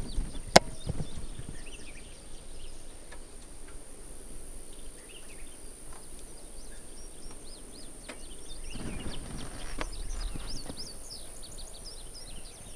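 Birds chirping and singing, many short quick calls, over a steady high-pitched whine, with a sharp click about half a second in.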